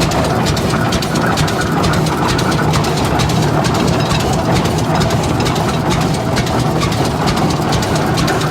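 1912 Rumely OilPull Type F's big single-cylinder engine running steadily at its 375 RPM working speed, with a constant mechanical clatter.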